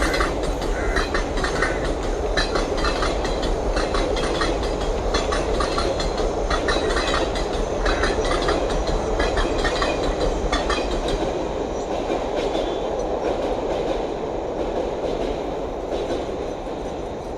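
Indian Railways train passing, a steady rumble with its wheels clicking over the rail joints as the coaches go by; the sound begins to fade over the last few seconds.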